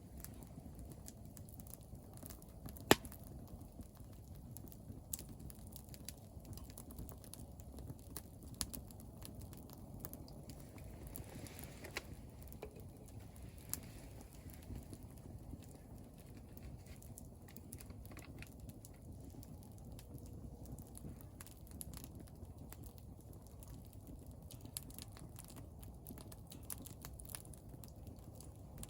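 Rain and campfire ambience: scattered sharp taps and pops over a low steady rumble, with one loud pop about three seconds in.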